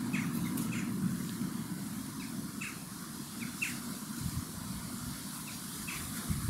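Small birds chirping, short repeated calls every half second or so, over a steady low rumble.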